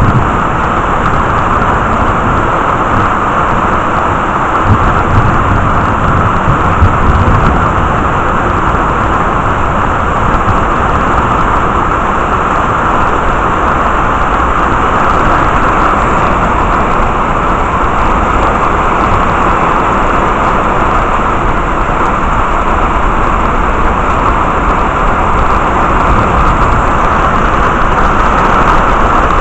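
Heavy rain falling in a steady, even hiss, with a low rumble of thunder a few seconds in.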